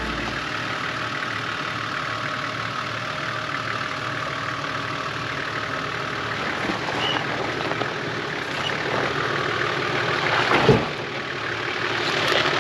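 Four-wheel drive moving along a rocky dirt track, with steady engine and tyre noise. A single sharp knock comes near the end.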